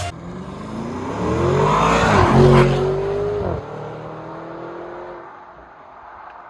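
Audi RS6 C8's twin-turbo V8 with Akrapovic exhaust accelerating: the engine note climbs for about two seconds, peaks, dips and holds briefly, then drops away about three and a half seconds in and fades out.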